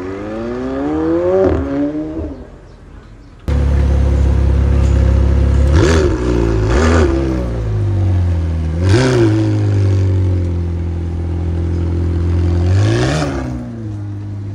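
Car engine revving: one rev that climbs in pitch and drops back over the first two seconds. Then, after an abrupt cut, a loud, deep idle is blipped in four short, sharp revs.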